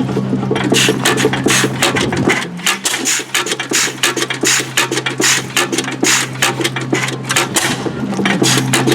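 Antique stationary gas engine running with a fast, even clatter, just after being started. A steady hum underneath drops out for a moment about two and a half seconds in and again near the end.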